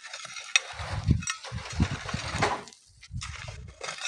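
Gritty hiss of sand being shovelled and sieved, with irregular gusts of wind rumbling on the microphone and a few sharp ticks.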